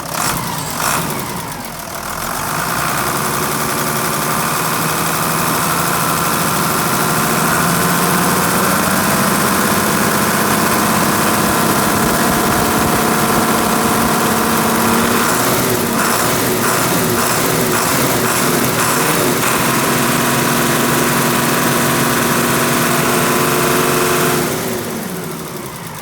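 Mitsubishi Fighter truck's 6D14 inline-six diesel engine running: it picks up speed from idle about two seconds in, holds a raised, steady speed for most of the stretch, then drops back toward idle near the end. A couple of sharp knocks come in the first second.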